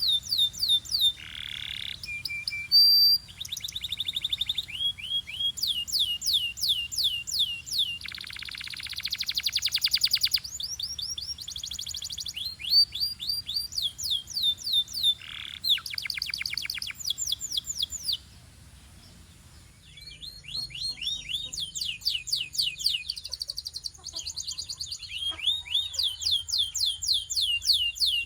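Belgian canary singing: fast trills of repeated, sharply falling high notes in phrases of a few seconds, each phrase a different note. There is one buzzier rolled phrase and a short pause about two-thirds of the way through.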